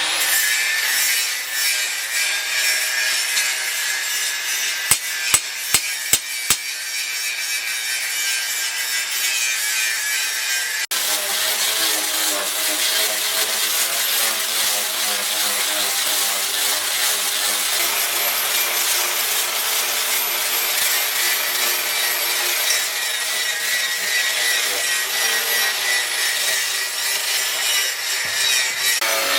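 Steady rasping and scraping of abrasive shaping work on a knife blank, with four sharp taps about five to six and a half seconds in. About eleven seconds in the sound cuts abruptly to a similar rasping with a low hum under it.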